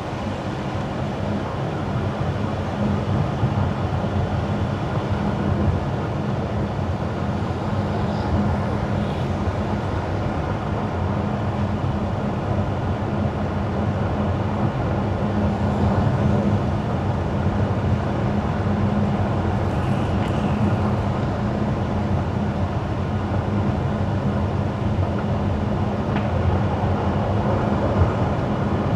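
A car driving on wet winter asphalt: steady tyre and road noise with a low hum underneath.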